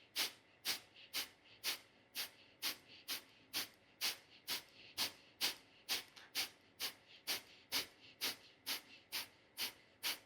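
Kapalabhati (breath of fire) breathing: rapid, forceful exhales pushed out through the nose, an abrupt sharp puff about twice a second in a steady rhythm.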